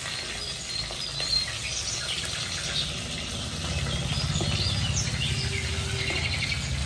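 Small birds chirping at intervals over a steady low rumble that grows a little louder about halfway through.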